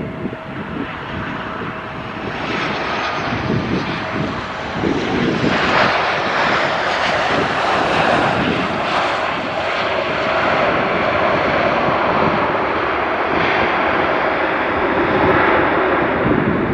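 Airliner engines running loud and close, building up over the first five seconds and then holding steady.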